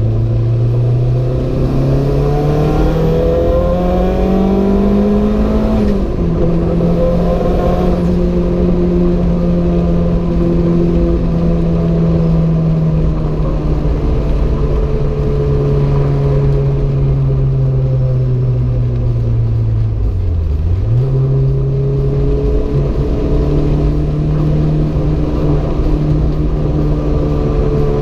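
Renault 5 GT Turbo's turbocharged four-cylinder engine driving under load. Its revs climb for about six seconds, then drop at a gear change, and it pulls on steadily, easing a little. About twenty seconds in there is a brief dip in revs before the engine settles again.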